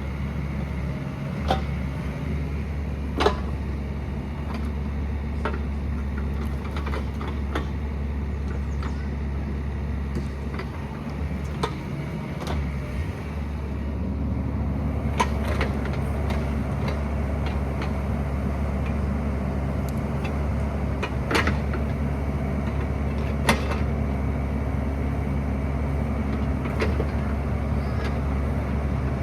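Excavator's diesel engine running steadily, picking up a little and getting fuller about halfway through, with scattered sharp clanks and knocks as it works in rock.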